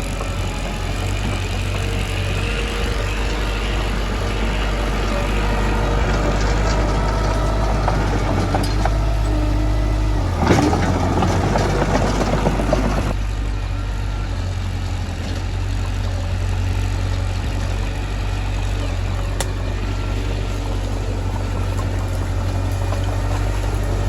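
Mitsubishi bulldozer's diesel engine running steadily. A louder, noisy rush lasts about two and a half seconds, starting a little before halfway.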